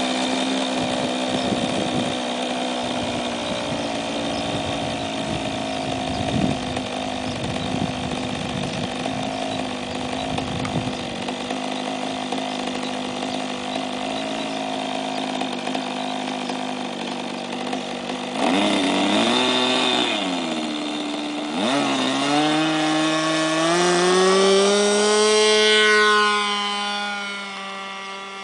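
OS rotary engine of an RC model Zlin Z-50 plane running in flight, a steady note for most of the time. In the last third its pitch swings up and down several times, climbs higher, then the sound fades toward the end.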